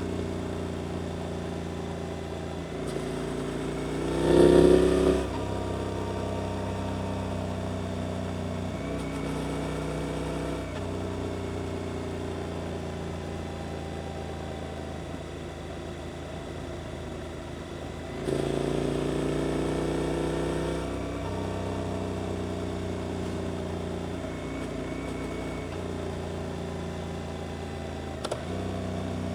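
Suzuki GSX-8S parallel-twin engine running through an aftermarket Arrows exhaust while riding. The engine pitch steps with gear changes and there is a sharp rising rev about four seconds in. The throttle opens again about eighteen seconds in.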